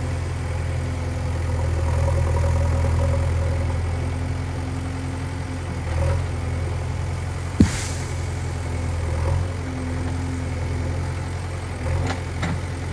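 Diesel engine of a JCB 3DX backhoe loader running steadily, with one sharp clank about halfway through and a few lighter knocks near the end.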